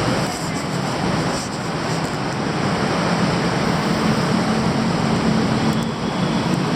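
Steady roar of busy city street traffic, with a low engine hum standing out in the second half.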